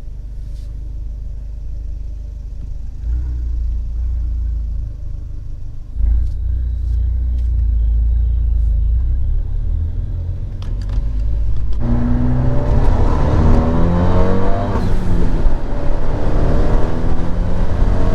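Fiat 124 Spider's 1.4-litre MultiAir turbo four-cylinder engine running with a low rumble, then accelerating about twelve seconds in, louder, its pitch climbing and dropping several times.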